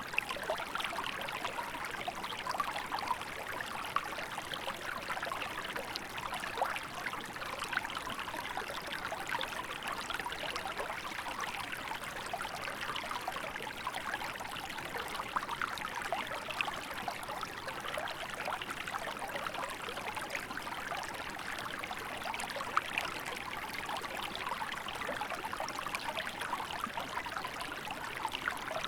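Small river in winter flowing steadily, water running and trickling over rocks with a continuous splashing hiss.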